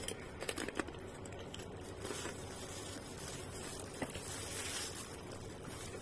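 Close-up chewing and mouth sounds of someone eating rice and fried chicken, with soft rustling from a plastic food glove and a few light clicks in the first second.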